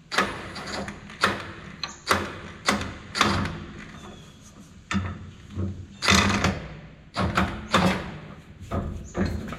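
About a dozen sharp, irregularly spaced knocks on metal parts, each ringing briefly.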